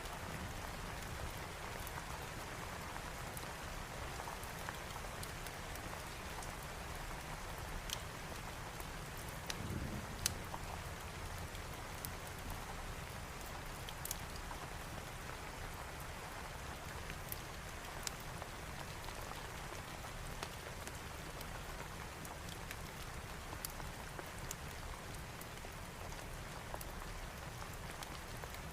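Steady rain falling, with scattered sharp ticks and a brief low rumble about ten seconds in.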